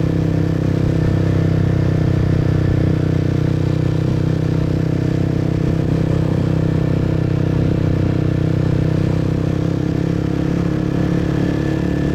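Motorbike engine running at a steady cruising speed, heard from the rider's seat, with a steady pitch and road noise.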